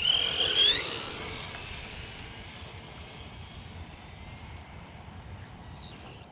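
Electric RC car accelerating away: its motor whine climbs steadily in pitch for about three seconds and fades as the car gets farther off, over tyre and road noise, with a brief lower whine near the end.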